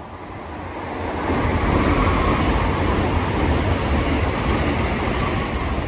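A train passing through a station: a rushing, rumbling noise that swells over the first second or so and then holds loud and steady.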